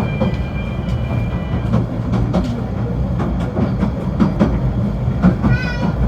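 Snowdon Mountain Railway rack-railway train running, a steady low rumble with frequent clanks and knocks from the running gear. Near the end comes a brief high wavering squeal.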